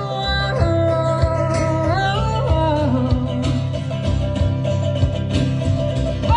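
A live country band playing: guitar with a held melody line that slides between notes, over a steady bass and beat.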